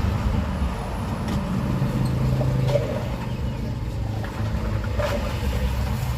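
Road traffic going by: a steady low engine rumble, with one vehicle passing more strongly about two to three seconds in.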